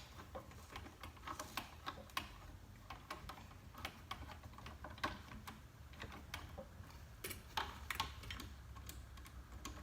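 Irregular light clicks and taps of small metal hardware being handled while a ceiling fan's blade arm screws are put in, over a steady low hum.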